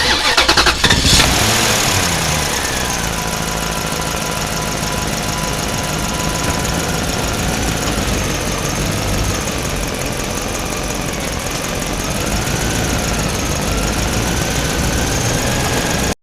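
A small motor or engine starts with rapid clicking in the first second, then runs steadily with a faint whine that wavers slowly in pitch.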